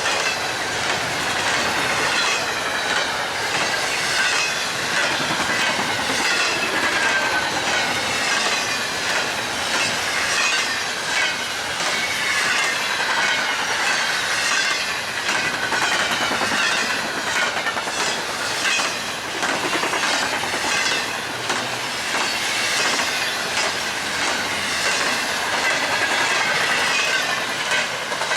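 BNSF train passing at speed: a steady rush of wheels on rail with clickety-clack and high, wavering wheel squeal and ringing tones.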